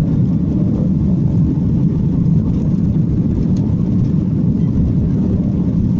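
Steady low rumble of a Boeing 737-800's CFM56 engines and rushing air, heard from inside the passenger cabin during the takeoff climb.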